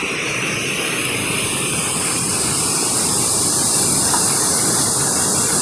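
Steady rush of running water from a stream swollen by heavy rain, its hiss growing slightly louder about a second in.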